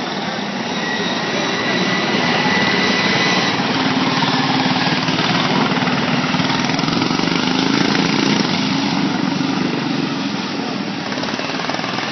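Racing lawn mower engine running at speed, a steady buzz that grows louder over the first couple of seconds and eases off near the end.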